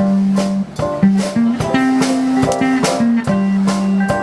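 Live rock band playing: guitar chords over sustained bass notes, with a steady drum beat.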